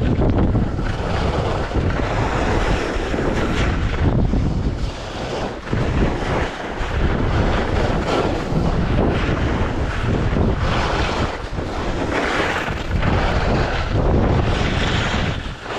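Strong wind buffeting a GoPro's microphone while skiing, a loud, gusty rumbling roar that swells and dips.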